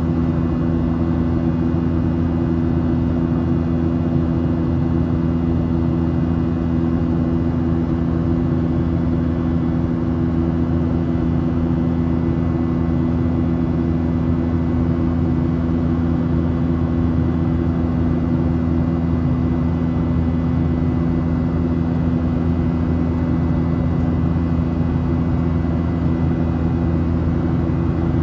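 Steady cabin drone of a Boeing 737 in flight, heard inside the cabin: jet engine and airflow noise with a strong low hum that holds unchanged throughout.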